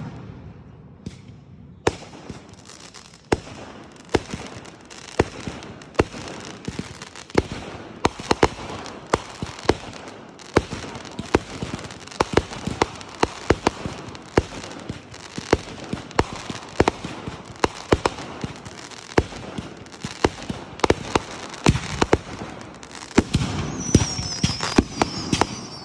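Fireworks going off in a dense, continuous barrage of sharp bangs and crackling, starting about two seconds in.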